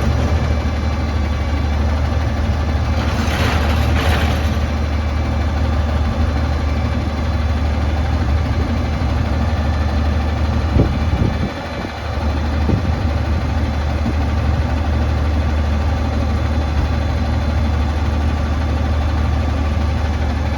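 Autocar ACX front-loader garbage truck's engine running steadily at idle, with a brief hiss about three seconds in.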